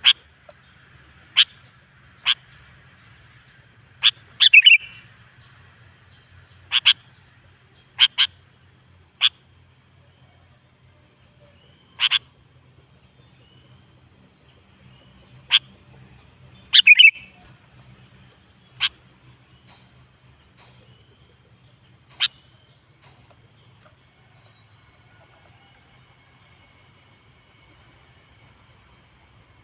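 Sooty-headed bulbul calling: short, sharp notes and a few brief bubbling phrases, spaced irregularly a second or several apart, stopping after about 22 seconds. A faint steady low hum lies underneath.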